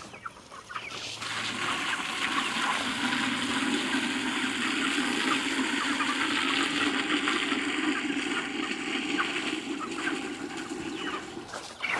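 Water from a garden hose running steadily into a bucket waterer, with broiler chickens calling around it.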